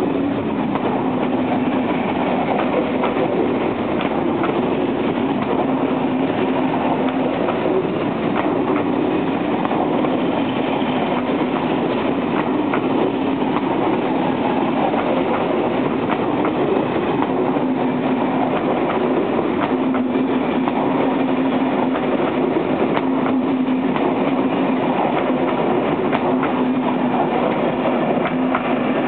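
Train of passenger coaches rolling past along the platform: a steady rumble of wheels on rails with a constant hum and repeated clicks of wheels over rail joints.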